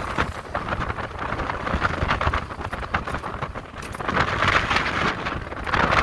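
Wind rushing over the microphone of a moving electric motorcycle, a rough, fluttering noise that swells louder a little past four seconds in and again near the end.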